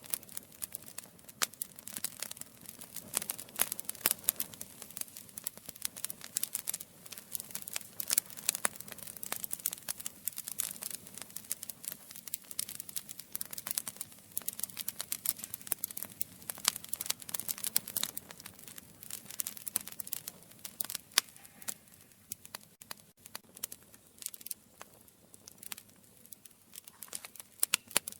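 Wood fire burning, with dense irregular crackles and pops over a faint low hiss; the crackling thins out about two thirds of the way through.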